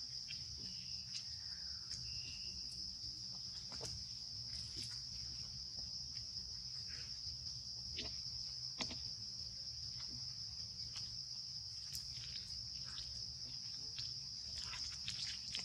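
Insects droning at one steady high pitch, with scattered faint clicks and snaps over it.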